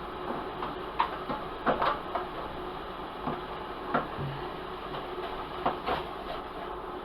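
Scattered light clicks and knocks of objects being handled, irregularly spaced a second or so apart, over a steady background hum.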